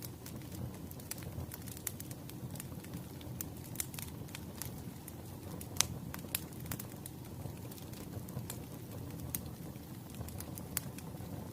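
Wood fire burning with a steady low rumble and frequent irregular sharp crackles and pops of burning logs, one louder pop about halfway through.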